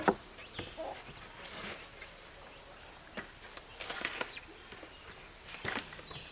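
Scattered light knocks and rustles, a few at a time, with quiet stretches between them.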